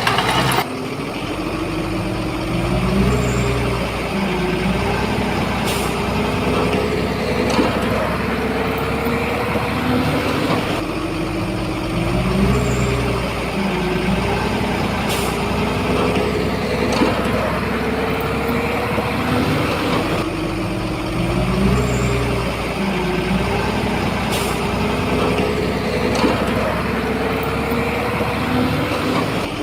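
Heavy diesel bulldozer working: the engine drones steadily under a whine that wavers up and down in pitch, with a few sharp metallic clanks along the way.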